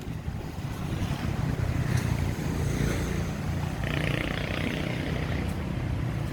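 An engine running steadily with a low hum. About four seconds in there is a brief, higher hiss.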